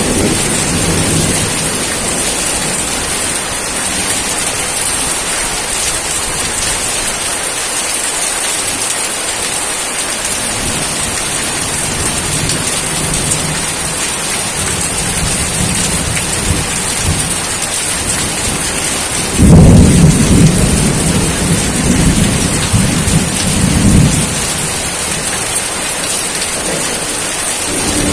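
Steady heavy rainfall hissing. About two-thirds of the way in, a sudden thunderclap breaks in and rolls as low rumbling for about four seconds before fading back under the rain.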